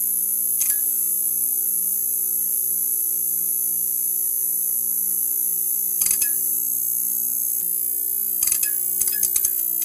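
Neon sign buzzing with a steady electrical hum and a high whine, broken by sharp electrical clicks about half a second in, around six seconds in, and a quick run of crackles near the end.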